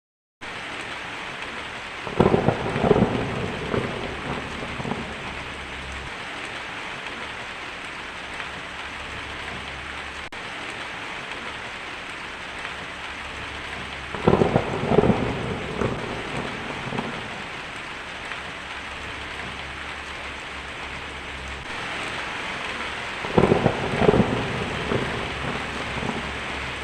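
Steady heavy rain with thunder. Three loud claps of thunder, each a cluster of sharp cracks lasting a few seconds, come about two seconds in, near the middle and near the end.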